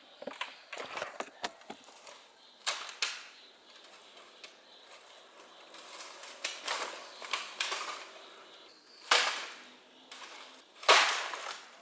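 Dry bamboo branches snapping with sharp cracks while leaves and stems rustle, as someone forces a way through a bamboo thicket. The loudest snaps come near the end, two of them about two seconds apart.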